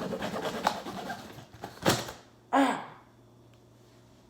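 A package being opened by hand: rustling and crinkling of the packaging, then a sharp knock about two seconds in and a brief loud sound just after.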